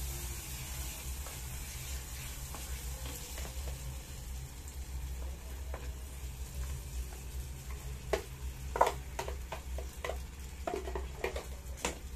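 Sauce and vegetables sizzling quietly in a small electric frying pot over a steady low hum, as a spatula stirs them. After the cooked rice goes in, the spatula scrapes and knocks against the pot in a quick run of clicks, loudest near the nine-second mark.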